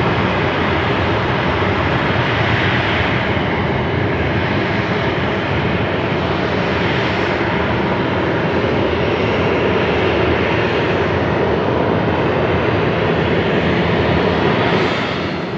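Jet engines of an Airbus A321neo (CFM LEAP-1A turbofans) during its landing, a steady loud roar whose tone slowly sweeps up and down as the aircraft moves, easing slightly near the end.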